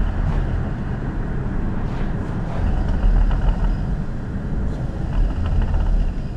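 BMW 540i's B58 turbocharged straight-six running under way, fitted with an aftermarket cold air intake: a steady low engine rumble that swells briefly a few times.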